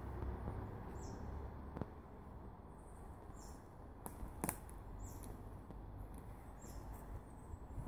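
A small woodland bird repeating a short, high, falling call every second and a half to two seconds. A few sharp clicks sound about two seconds and four and a half seconds in, the later one the loudest thing heard, over a soft low rumble.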